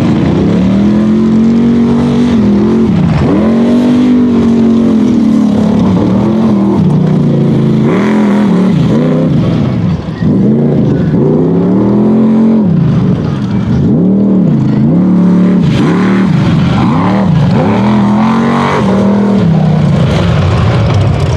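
Unlimited-class mega truck engine at race throttle, revving up and falling back over and over, the pitch rising and dropping every second or two. The loudness dips briefly about ten seconds in.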